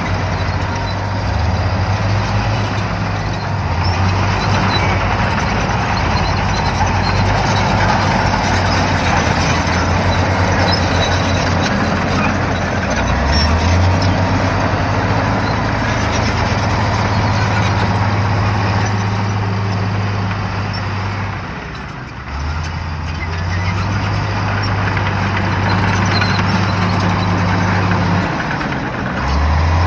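Shantui bulldozer's diesel engine working, its note dropping and picking up again several times as the load changes, over a steady mechanical noise. It eases off briefly about two-thirds of the way through.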